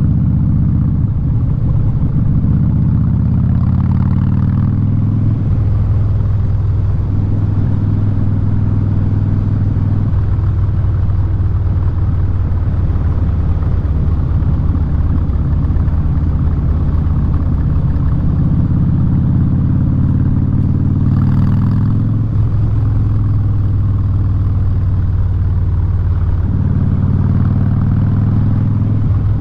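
2017 Harley-Davidson Street Bob's V-twin running through a loud Vance & Hines exhaust while riding. The engine note steps up and down several times as the rider changes throttle and speed.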